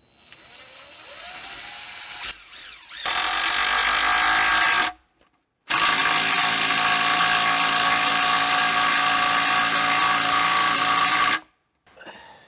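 Power drill boring a hole through a log: a lighter start with the motor whine rising, then two long steady runs of loaded drilling, the second lasting about six seconds before it stops sharply.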